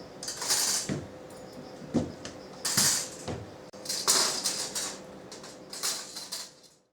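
Four short bursts of clattering and scraping, each about half a second long, over a faint steady hum; the sound cuts off abruptly at the end.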